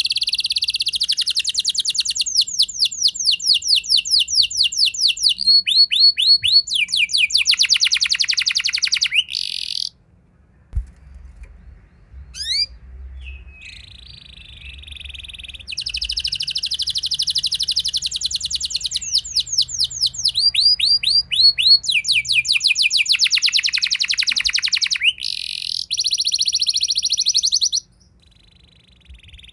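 Domestic canary singing a long rolling song of fast trills, rapid repeated notes sweeping up and down. It breaks off about a third of the way in, resumes after a few quiet seconds, and stops again near the end.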